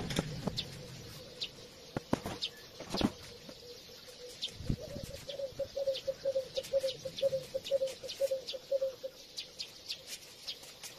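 Birds calling: scattered short high chirps, and a run of short calls at one pitch repeating about four times a second through the middle, then stopping. A few sharp knocks in the first three seconds.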